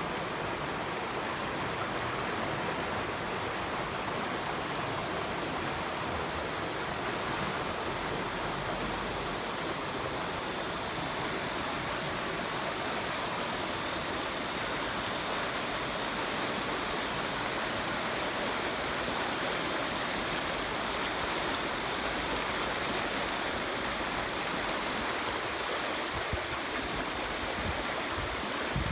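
Running water rushing steadily as an even hiss, with a few faint low knocks near the end.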